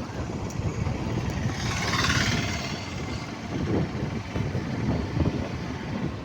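Vehicle engine and road noise, a steady low rumble, with a brief hissing rush about two seconds in.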